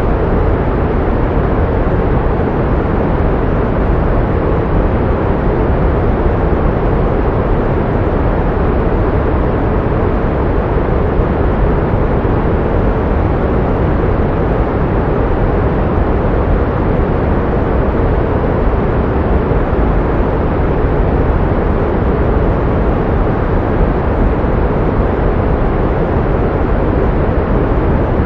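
Steady pink noise: an even, unchanging hiss weighted toward the low end, used as sound therapy to mask tinnitus.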